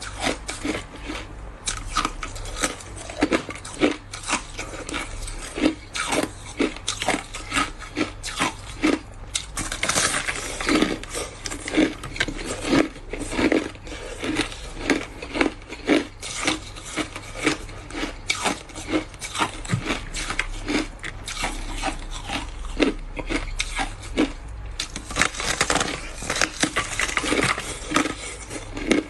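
Ice being bitten and chewed close to the microphone: a run of crisp crunches, about two to three a second, with denser grinding stretches about ten seconds in and again near the end.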